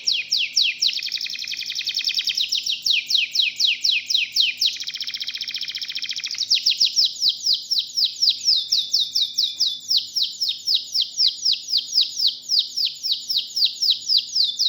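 Domestic canary singing a long, unbroken rolling song. It is a string of quick falling whistled notes, about five a second, broken twice by fast buzzy trills.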